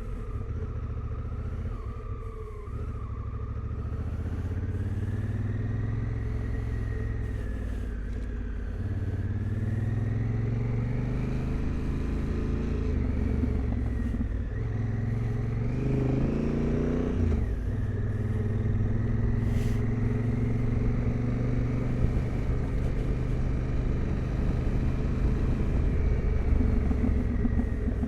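Adventure motorcycle engine running under way, its pitch rising and falling with throttle and gear changes. About two-thirds of the way through, a quick rev climbs and drops.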